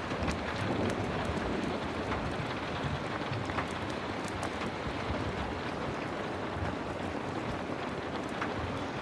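Heavy rain falling steadily, with scattered sharp crackles from firewood burning in a stove.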